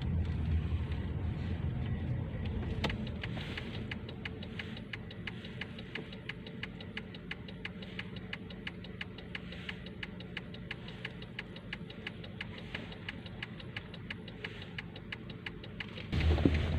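A car's turn-signal indicator ticking evenly, about three ticks a second, heard inside the cabin over the low rumble of the moving car. Near the end the rumble suddenly gets louder.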